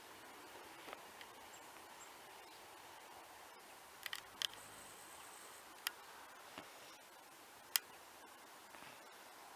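Faint steady background hiss broken by a few sharp clicks: a quick cluster about four seconds in, then one near six seconds and one near eight.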